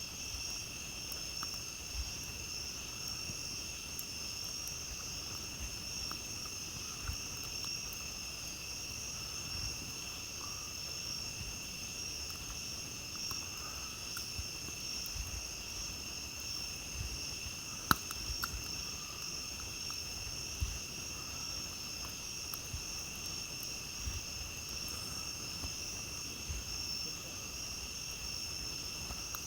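Steady chorus of crickets and other night insects, with occasional small crackles and pops from a campfire and one sharper pop about two-thirds of the way through.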